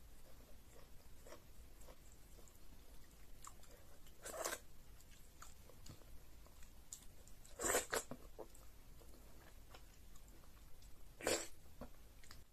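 Close-up eating sounds of fufu and egusi soup eaten by hand: soft chewing and frequent faint mouth clicks, with three louder sharp mouth sounds about four, eight and eleven seconds in.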